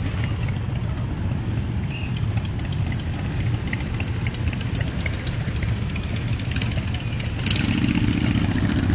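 Motorcycle engines idling steadily, with a louder engine note coming in about seven and a half seconds in.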